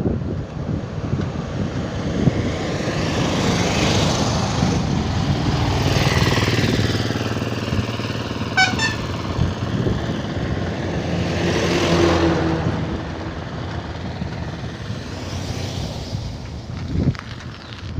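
Motor vehicles passing on a road: a continuous engine and tyre noise that swells twice, about four seconds in and again around twelve seconds, as vehicles go by. A short run of high pips sounds briefly in the middle.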